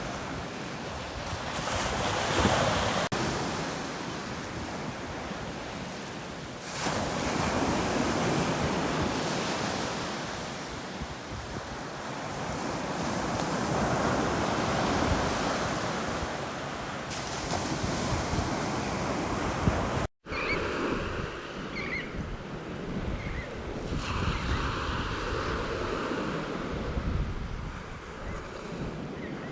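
Ocean surf breaking and washing up a beach in repeated surges that swell and ease every few seconds. About two-thirds through there is a sudden brief dropout where the recording cuts to another stretch of surf.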